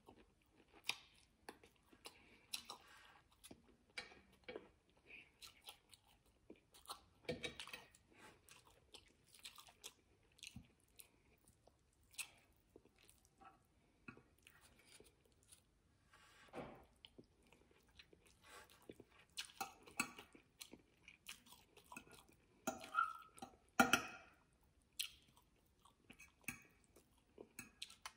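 Chewing and eating sounds of salmon and roasted vegetables: scattered wet mouth clicks and small crunches, irregular and fairly faint, with a louder cluster about 24 seconds in.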